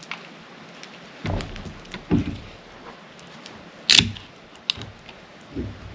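A few dull thumps and one sharp, loud knock about four seconds in, like a door or gear being handled, over a steady light hiss of rain.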